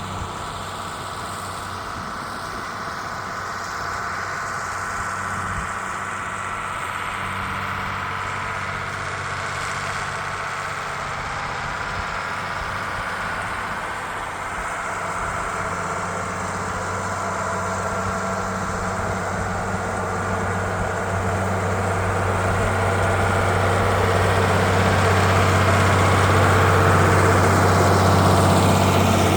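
Diesel engine of a 2290 farm tractor running steadily under load while pulling a disc harrow through a field. It grows louder over the second half as the tractor comes closer.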